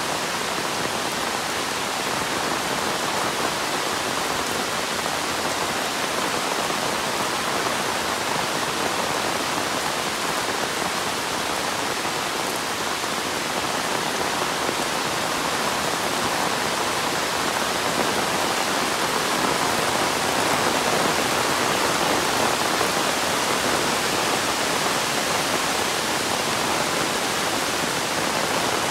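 Heavy monsoon rain falling steadily: a dense, even hiss of rain on surfaces.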